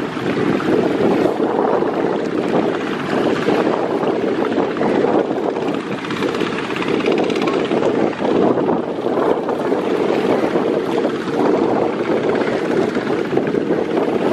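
Steady rushing rumble of a river passenger launch under way through rough water, with wind buffeting the microphone.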